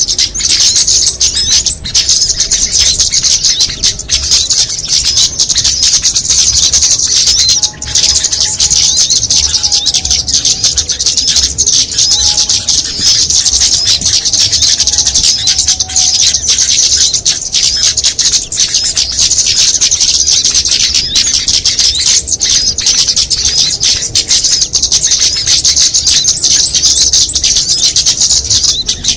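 Small songbirds twittering densely and without a break in rapid, high-pitched chirps, a mixed bird-lure (pikat) recording used to draw small birds in. A few fainter, lower whistled notes come in about halfway through.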